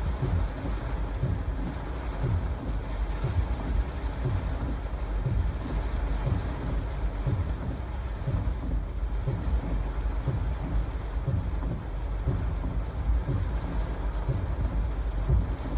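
Heavy thunderstorm rain falling steadily while strong gusty wind buffets the microphone with an uneven low rumble.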